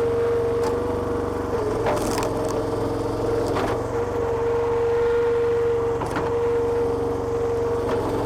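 Petrol engine of a homemade hydraulic log splitter running steadily, with a few sharp cracks of wood splitting.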